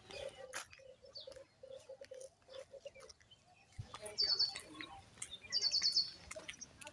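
Small birds chirping: two short bursts of rapid high chirps, about four and about five and a half seconds in. Under them in the first half is a low, rapidly pulsing sound.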